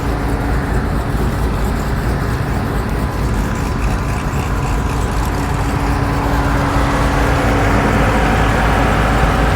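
A vehicle engine idling steadily: a low rumble with a steady hum over it, growing a little louder over the last few seconds.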